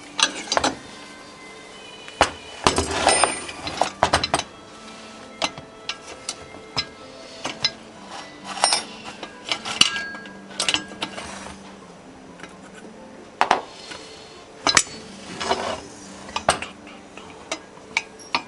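Metal tools and parts clinking and knocking at an irregular pace, several strikes ringing briefly, over a steady low hum.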